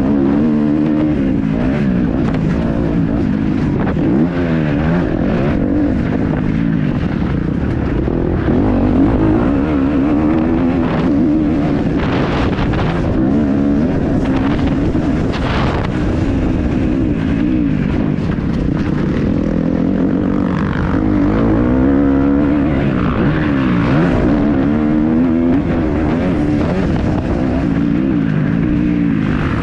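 Kawasaki KX250F motocross bike's four-stroke single-cylinder engine being ridden hard, its pitch climbing and dropping again and again as the rider accelerates, shifts and backs off on the track.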